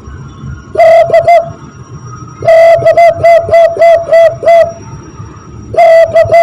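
Zebra dove (perkutut) cooing imitated by blowing into cupped hands: quick, evenly spaced notes at one pitch, each dipping at its end. A short run comes about a second in, a long run of about nine notes follows, and a third run starts near the end.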